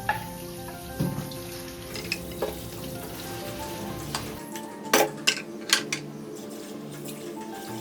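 Food sizzling in a frying pan, with a few sharp clicks of a utensil against the pan about five seconds in. Soft background music plays underneath.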